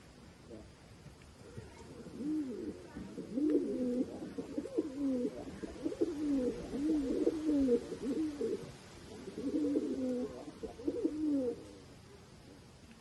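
Pigeons cooing: a run of low, repeated coos that rise and fall in pitch, thicker in the middle and tailing off near the end.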